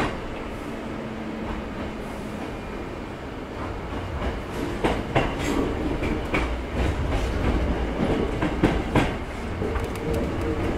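Running noise inside the cabin of a Hankyu 6300 series electric train between stations: a steady low rumble of wheels on rail. From about four seconds in, the wheels give sharp clicks over rail joints, several of them.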